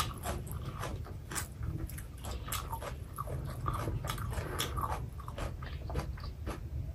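Close-miked chewing and mouth sounds: irregular wet smacks and clicks of people eating rice and pork curry by hand.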